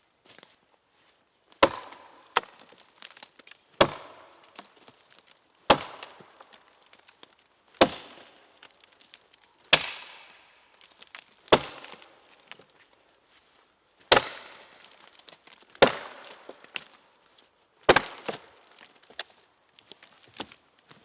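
Wood being chopped with an axe: about ten sharp strikes into wood, roughly one every two seconds, each followed by a brief crackling rustle.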